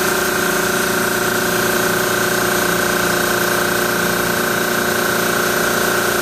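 Carrier reciprocating refrigeration compressor running steadily, with a constant whine over it, while pumping the system down after the liquid line solenoid is closed.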